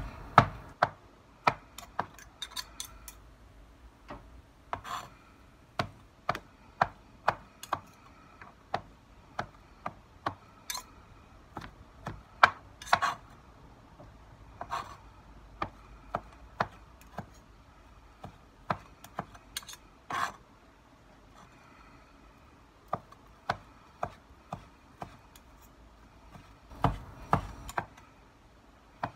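Kitchen knife slicing grilled pork on a plastic cutting board: the blade knocks sharply on the board at an uneven pace, about one or two knocks a second, with a short lull about three-quarters of the way in.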